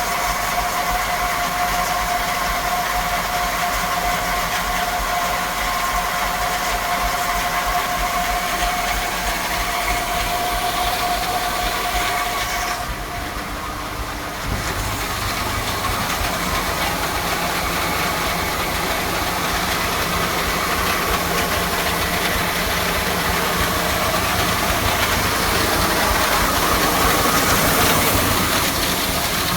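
Tractor engine running steadily with a whine over it, typical of the hydraulics tipping a grain trailer. About halfway through the whine stops and the level dips briefly. The engine then runs on, a little louder near the end.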